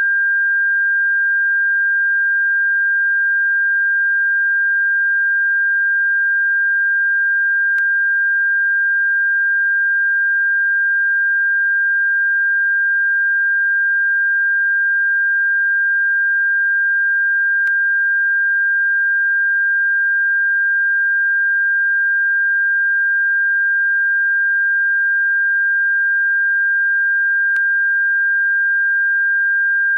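A steady, unbroken, high-pitched pure electronic tone, played as a bird-repellent sound. A very faint click comes three times, about ten seconds apart.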